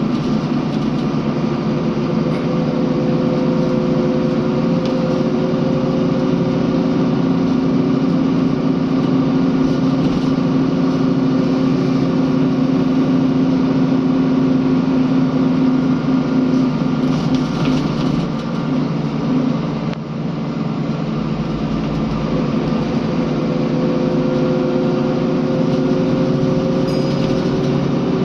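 Scania L94UB bus's diesel engine running as the bus drives, its pitch slowly rising. About two-thirds of the way in the sound drops briefly, then the engine climbs again in pitch.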